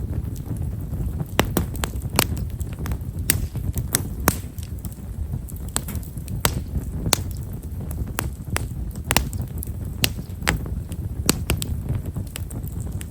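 Himeshara (Stewartia monadelpha) firewood burning in a campfire, crackling with fine, sharp, irregular pops a little more than once a second over a low steady rumble.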